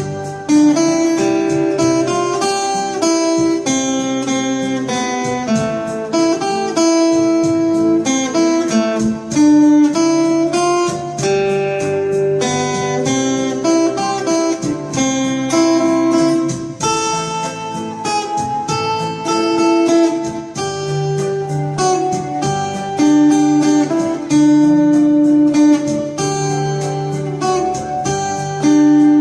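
Acoustic guitar playing continuously, a run of plucked notes with strummed chords and no singing.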